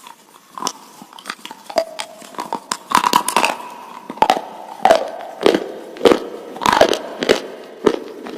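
Close-miked biting and crunching of hard, brittle slate pencil, eaten as an ASMR snack: a run of sharp crunches with chewing between them, sparse and softer at first, then louder and coming about one or two a second from about three seconds in.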